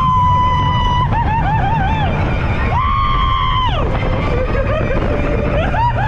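Roller coaster ride in motion: heavy rumble of wind and track, with riders giving long held screams and wavering whoops that fall away at the ends.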